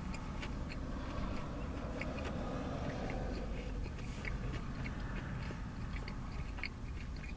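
Close-up chewing of a Subway spicy Italian sub on wheat bread: wet mouth clicks and smacks, two or three a second, over a steady low background rumble.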